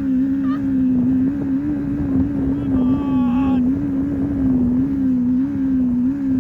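Boat engine running with a steady drone that wavers slightly in pitch, misfiring for lack of spark on two cylinders. A brief higher-pitched sound comes about three seconds in.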